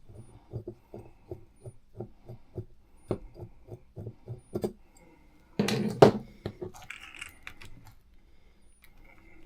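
Small metal hand tool and parts being worked on an RC truck's wheel hub: a run of light, regular clicks about three or four a second, then a loud clatter about six seconds in as metal parts are set down or dropped on the bench.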